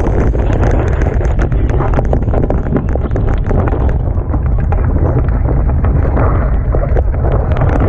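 Strong wind buffeting the microphone over rushing water and spray on a Hobie Tiger catamaran sailing fast in gusts of about 30 knots, with frequent sharp spatters of spray.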